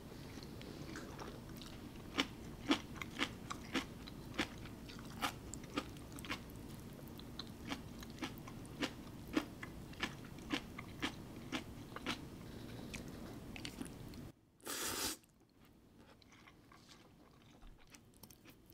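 Close-up chewing of crunchy food: sharp crunches about twice a second over a low steady hum. Then a short loud rush of noise about three-quarters through, and the chewing gives way to quieter sounds.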